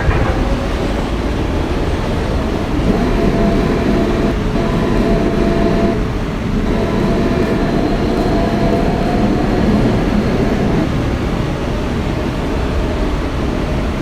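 Inside an R160B subway car with Siemens propulsion running through the tunnel: a steady rumble of wheels on rail, with a faint steady whine from the traction motors and a few clicks near the start.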